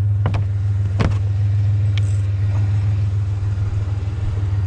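Truck engine idling with a steady low hum, and three sharp knocks in the first two seconds as scrap is put into the truck.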